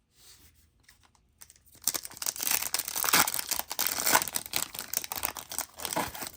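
A trading-card pack wrapper being torn open and crinkled, a dense crackling that starts about two seconds in and goes on for some four seconds.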